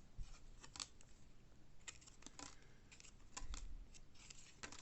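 Baseball trading cards being handled and flipped through: a scattering of light, irregular clicks and faint rustling.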